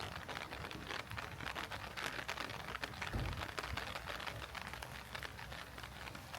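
Heavy rain falling, with a dense run of close raindrop ticks over a steady hiss. There is one low thump about three seconds in.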